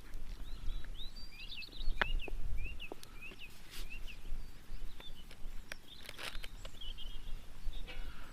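Small birds chirping and twittering in quick short calls, strongest in the first few seconds, over a low steady background rumble, with a few sharp clicks.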